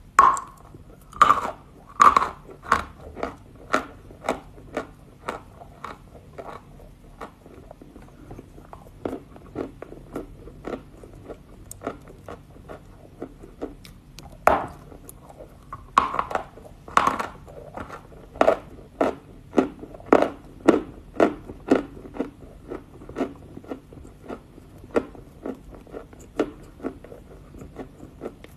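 Close-miked crunching as something hard and brittle is bitten and chewed: a train of crisp cracks about one to two a second, with louder bites near the start and again about halfway through.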